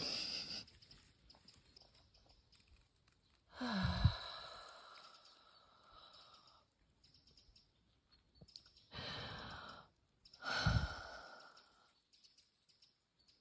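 A woman breathing deeply with audible sighs: two long sighing exhales, each starting with a low voiced note and trailing off into breath, with shorter breaths between them.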